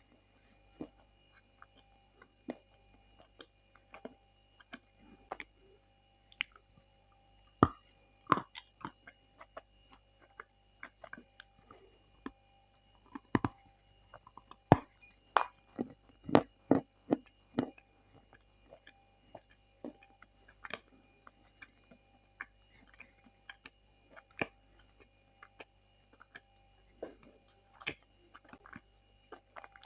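Close-up chewing of Bashkir edible clay: irregular wet clicks and smacks as the sticky clay is worked in the mouth, coming thickest about halfway through.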